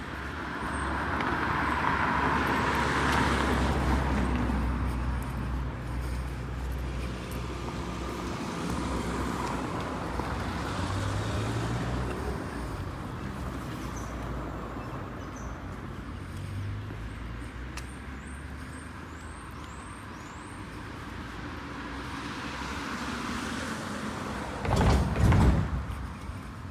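City street traffic: cars and buses passing, a steady hum that swells in the first few seconds, with a brief, loud low rumble near the end.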